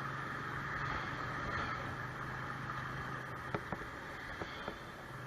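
Steady vehicle running noise, a low engine hum under road and wind noise, with a few light clicks a little past halfway.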